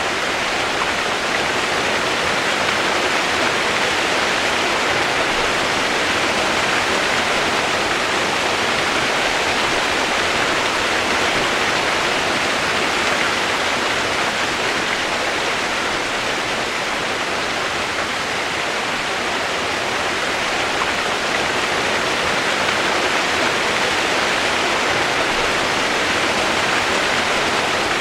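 Rushing water, a steady even hiss with no breaks or changes.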